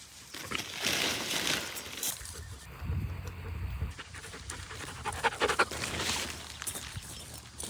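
Panting: quick, noisy breaths.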